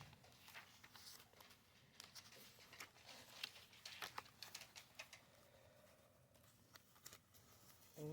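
Faint, irregular rustles and soft taps of paper pages being turned and handled in a handmade junk journal.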